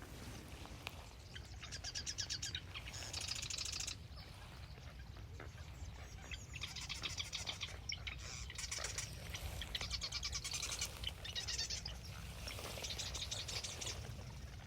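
Nuttall's woodpecker giving rapid, high-pitched rattle calls in bursts of one to two seconds, four or five times, over a low steady rumble.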